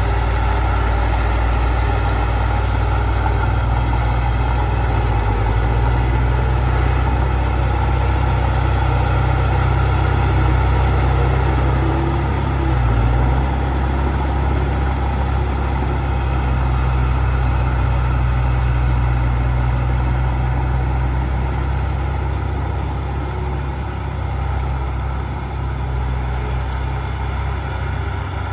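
Heavy diesel engine of earthmoving machinery running steadily, with a brief change in pitch about twelve seconds in and a slight drop in level later on.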